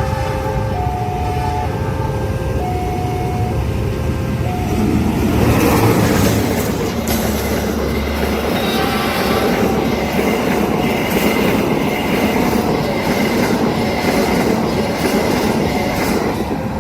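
A level-crossing warning alarm sounds two alternating tones. About five seconds in, a train passes fast: first the deep running of the diesel locomotive, then the wagons' wheels clacking rhythmically over the rail joints.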